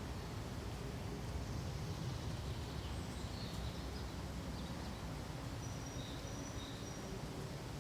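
Steady soft hiss of wind through pine trees with faint, brief bird chirps: a few high notes a few seconds in, and a short run of thin, high whistled notes later on.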